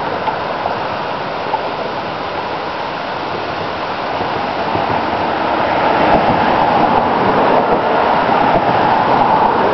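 Steady noise of wind and road traffic, swelling about five seconds in as a vehicle passes.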